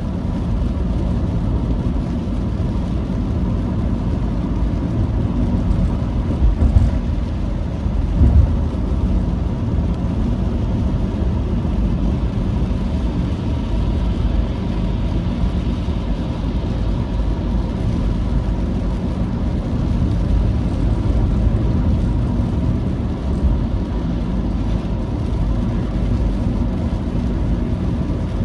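Steady engine and road noise of a vehicle driving, with two brief thumps a few seconds in.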